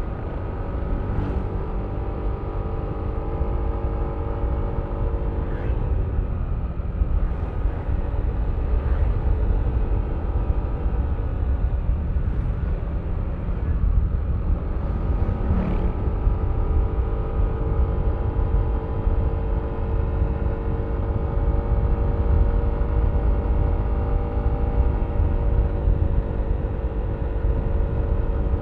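Yamaha Aerox V3 scooter's 155 cc single-cylinder engine running under way, over a heavy low rumble. The engine note fades for several seconds about a fifth of the way in, then comes back steady.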